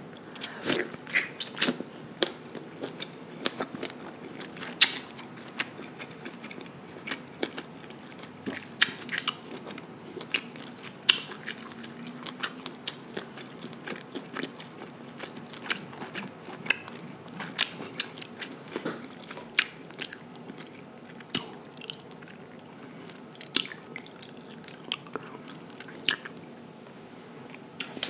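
Close-miked chewing of sauce-coated king crab meat: wet, irregular smacks and clicks of the mouth, a few every second.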